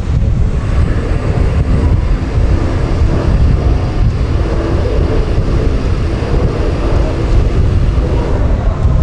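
Steady loud rumble of wind buffeting the microphone aboard a ferry, mixed with the ship's low engine and sea noise.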